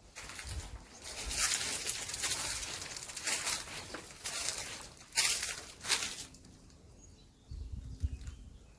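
Uneven bursts of rustling noise with a few sharper crackles, then a few low thuds near the end.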